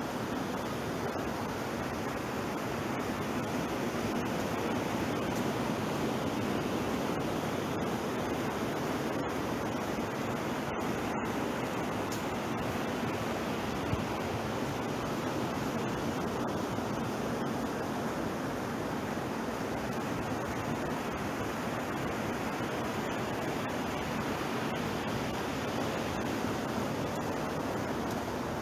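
Ocean surf washing on the beach: a steady rushing noise that swells gently now and then.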